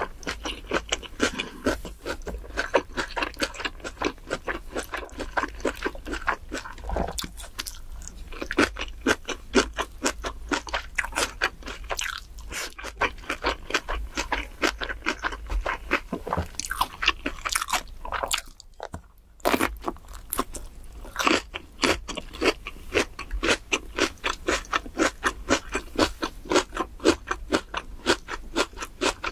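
Close-miked ASMR chewing of a mouthful of grilled pork belly and side dishes: wet, crunchy chews at about three a second, with a brief pause a little past two-thirds of the way through.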